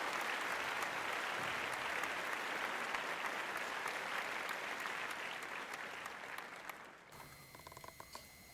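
A crowd applauding, a dense, even clapping that starts suddenly and fades away about seven seconds in, leaving a faint steady high tone.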